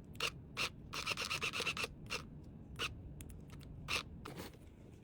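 Short rubbing and scratching noises, with a quick run of strokes about a second in and single scrapes scattered through the rest, from items and packing material being handled.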